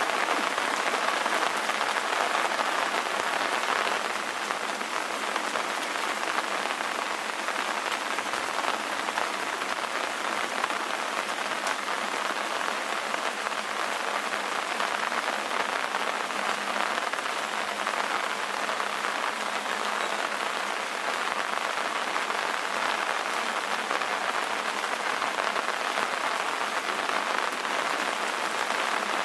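Steady rain ambience: an even hiss of rain falling on surfaces, with no deep rumble beneath it.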